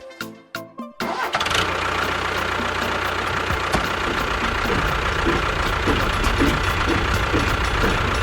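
Short plucked cartoon-style music notes, then about a second in a vehicle engine starts abruptly and keeps running steadily with a deep rumble.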